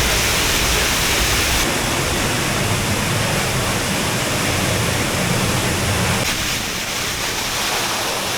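Waterfall: water pouring down in a steady, dense rush.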